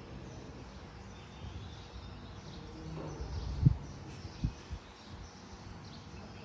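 Outdoor background noise with faint bird chirps, and two dull thumps about three and a half and four and a half seconds in.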